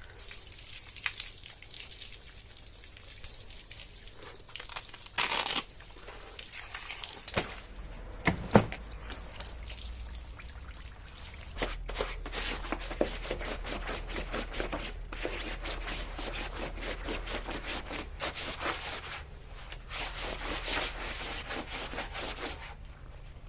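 Cleaning with soapy water: rubbing and scrubbing sounds with drips and a few louder knocks, turning into fast, continuous scrubbing strokes about halfway through.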